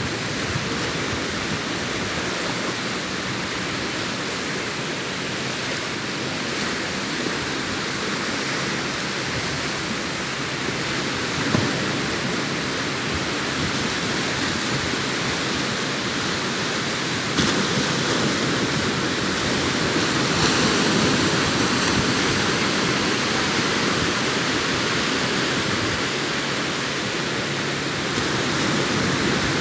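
Sea waves breaking on the shore, a continuous wash of surf that swells louder about two-thirds of the way through, with one short knock about a third of the way in.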